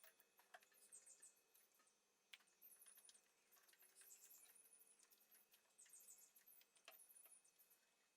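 Near silence, with faint scattered clicks and light high-pitched chirps.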